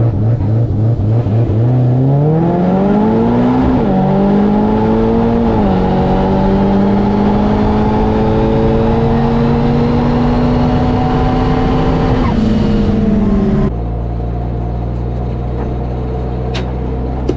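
Drag racing car engine at full throttle down the track: its pitch climbs, dips at two gear changes about four and five and a half seconds in, then holds high and steady. Near the end it cuts suddenly to a steady low hum.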